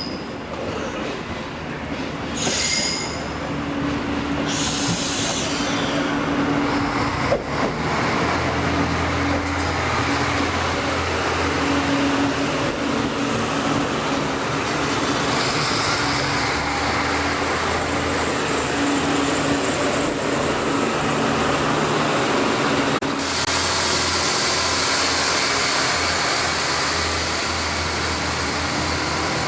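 Irish Rail passenger train running at a station platform: a continuous mechanical rumble with a steady low drone and a higher hum that fades in and out, and a few brief high squeals in the first few seconds. About 23 seconds in, the sound changes abruptly and gains a stronger high-pitched hiss.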